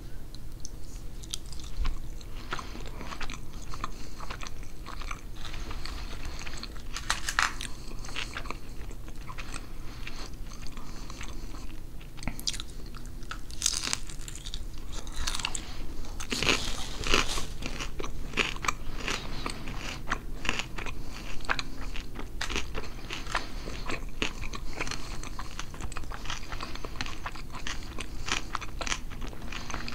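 Close-miked chewing of a mouthful of pernil (roast pork) and rice: many small sharp mouth clicks, denser in the second half.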